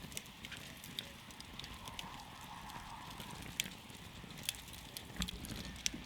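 Campfire crackling: irregular sharp pops and snaps of burning wood, a few louder ones in the second half, over a steady low rumble of the fire.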